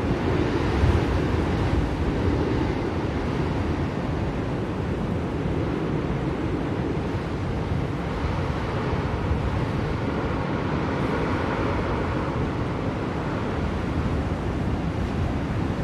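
Blizzard wind blowing steadily, a dense rushing noise over a deep low rumble that swells and eases slightly.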